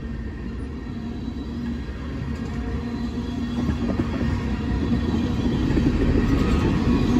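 Steel wheels of a long string of railroad tank cars rumbling over the rails as a freight train rolls past, growing steadily louder.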